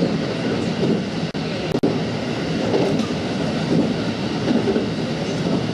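Running noise of a JR West 223 series 2000-subseries electric train on the move: a steady rumble of wheels on rail with a rhythmic clatter about once a second. Two very short drops in the sound come about a second and a half in.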